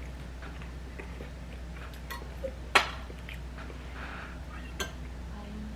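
Cutlery clicking against a plate while eating: a few short, sharp clinks, the loudest near the middle, over a steady low hum.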